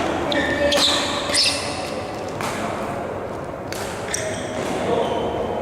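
Badminton rally in a hall: rackets striking the shuttlecock several times in quick succession, with shoes squeaking briefly on the court floor between shots.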